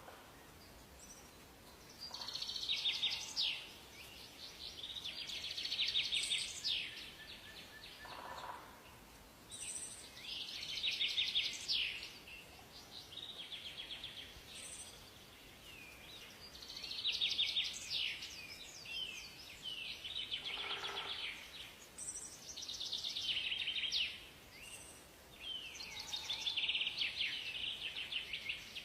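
Songbirds singing in a forest: high, rapid trilled phrases of about two seconds each, repeated every few seconds, over a faint steady background hiss.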